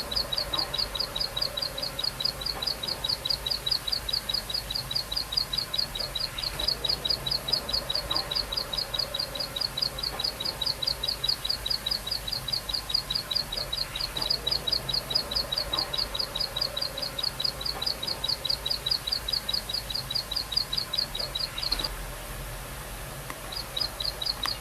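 A prinia (ciblek) singing a long, fast, even run of high, repeated notes, several a second; it breaks off near the end and starts again briefly.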